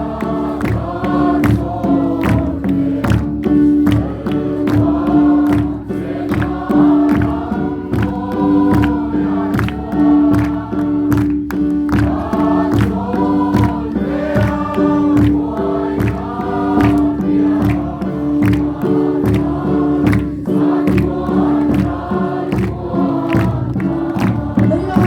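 A choir or congregation singing a gospel hymn over a steady percussive beat, with a sustained low note held underneath.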